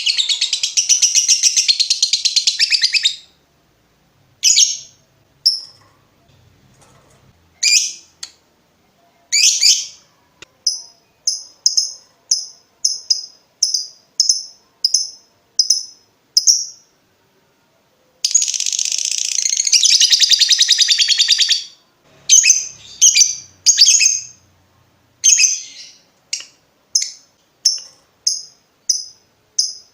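Lovebird song: a long, rapid chattering trill (the "ngekek") of about three seconds at the start and again midway, with short sharp chirps between, many in an even run of about two a second.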